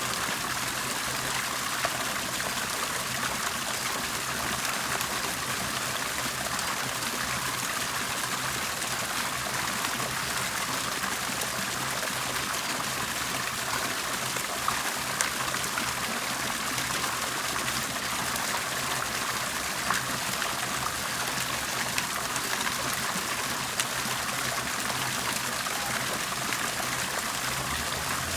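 Water bubbling and gurgling in a steady, unbroken flow, with the odd brief splash standing out.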